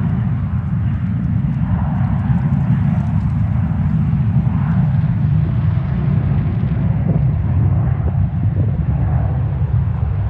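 Jet airliner engines, a steady loud rumble with no sharp events.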